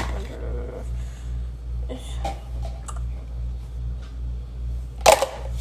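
Dishes handled while a dishwasher is being unloaded: a few light clicks and knocks over a steady low hum, with a louder clatter about five seconds in.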